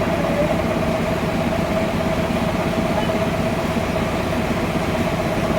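Sawmill machinery running steadily: a low engine drone with a steady whine held at one pitch.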